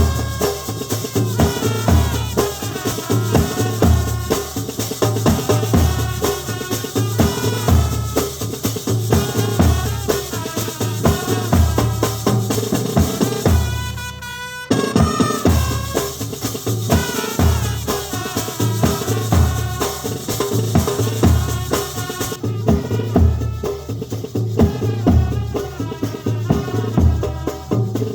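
Brass band playing a tune over a steady beat of bass drum and snare, with a brief break about halfway through.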